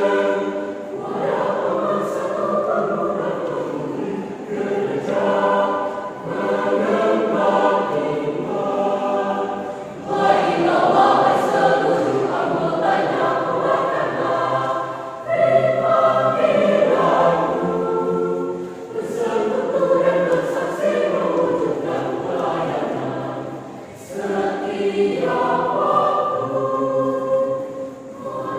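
Church choir singing in several voices, in long phrases with short breaks between them.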